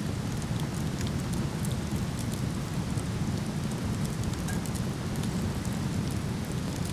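Waterfall rushing in a steady, deep wash of water noise, with scattered small crackles and pops from a wood fire burning.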